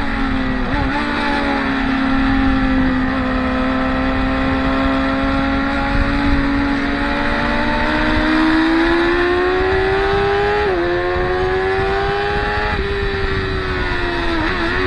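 Motorcycle engine working through a corner sequence. The revs drop with quick blips at the start, then pull steadily up, with a gear change about eleven seconds in, climb again, and fall away with more blips near the end.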